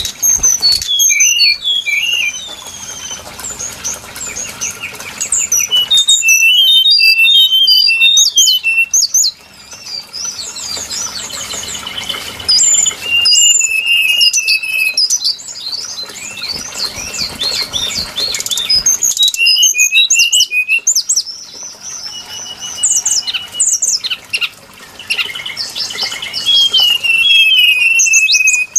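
Brown-chested jungle flycatcher singing: bouts of clear whistles and quick trilled notes, repeated every few seconds with short pauses between.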